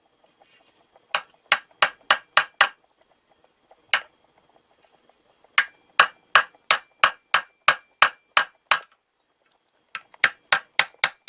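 Hammer blows on a Stanley knife blade wedged into the gap around the baffle of a Harley-Davidson Street 750's stock silencer, to force the baffle loose. Sharp strikes come in runs of about two to three a second with short pauses, and a faint metallic ring hangs on between them.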